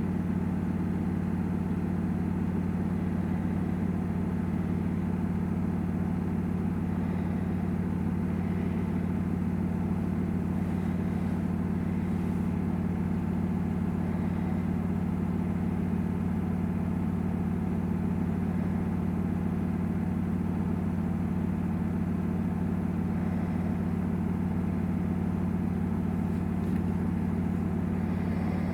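Samsung WW900 front-loading washing machine running with its drum spinning at a constant speed, a steady low hum with no change in pitch or level.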